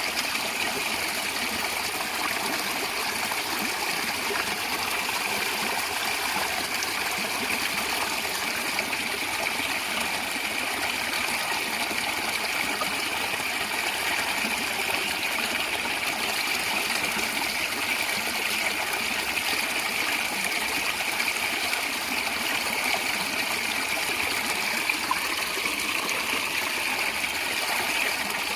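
A natural stream gurgling and trickling steadily over stones.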